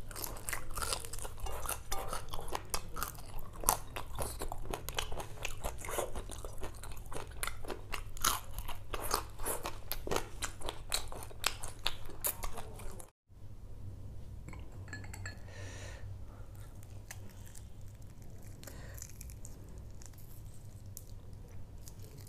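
Close-up chewing of a large curried prawn: a dense run of crisp crunches as the shell and legs are bitten. About thirteen seconds in it cuts off abruptly, followed by a quieter stretch of faint sounds.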